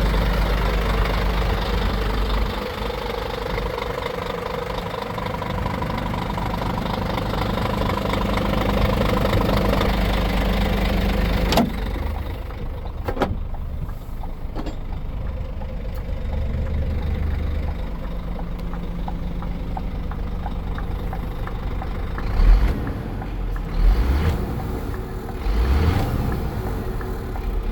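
Scania G440's 13-litre inline-six diesel engine idling steadily. About twelve seconds in there is a sharp knock, after which the sound is duller. Several short low surges come near the end.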